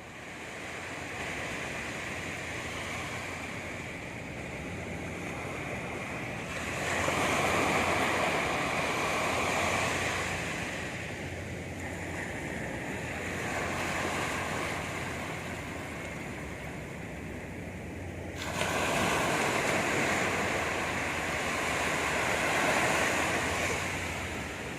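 Sea waves washing onto a beach, a steady rush of surf that swells louder twice as waves break, about a quarter of the way in and again, more suddenly, about three-quarters of the way through.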